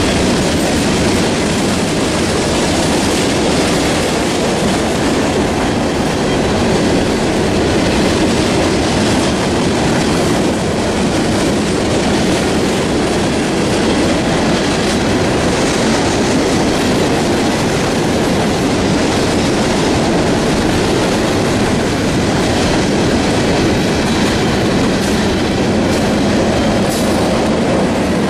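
Loaded coal hopper cars of a freight train rolling past on the rails, the steel wheels on the track making a loud, steady noise.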